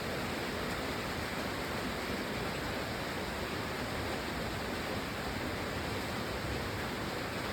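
Rain falling steadily, an even hiss with no change in level.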